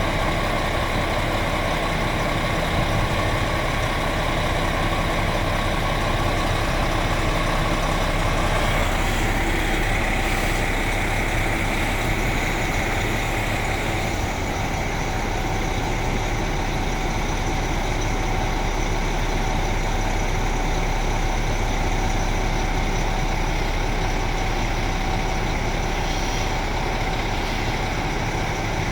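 A diesel train's engine idling steadily, its tone shifting slightly about nine seconds in.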